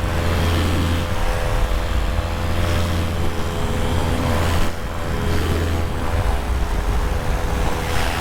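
Skymax paramotor's engine and propeller running steadily at power, with a broad rush of wind over it and a short dip about halfway through.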